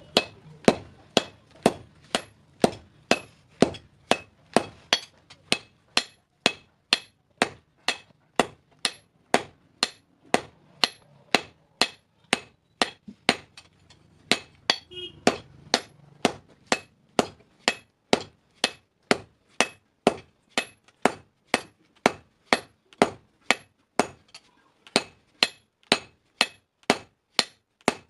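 Hand hammer striking a steel hasua blade on an anvil in a steady rhythm of about two blows a second, each blow ringing, with a brief pause near the end.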